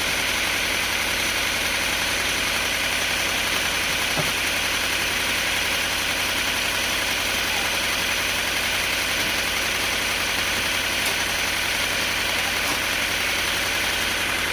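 Sawmill machinery running steadily, a constant engine-like drone with a hiss over it.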